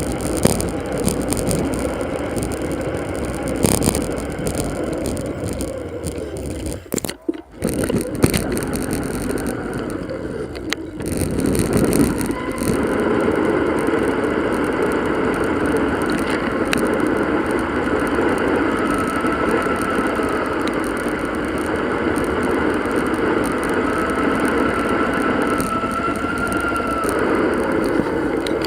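Wind and road noise from a moving bicycle, played back at four times normal speed, with a brief drop about seven seconds in.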